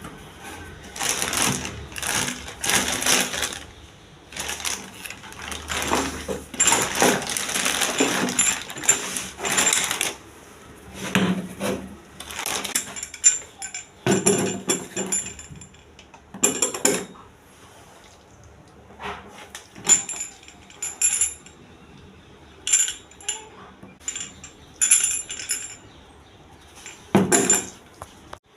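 Metal fittings and hand tools clinking, clattering and scraping in irregular spells of a second or two, with short bright metallic rings.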